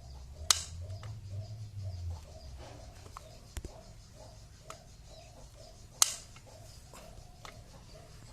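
Tools and metal parts clicking and knocking during a motorcycle engine overhaul: two sharp clicks about five and a half seconds apart, with a few fainter knocks between.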